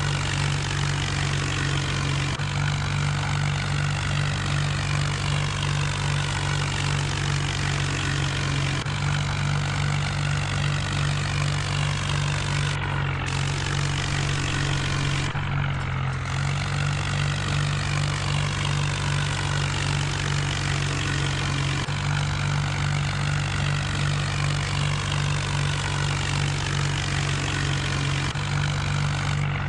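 John Deere tractor's diesel engine running steadily at a constant speed, working a rotavator.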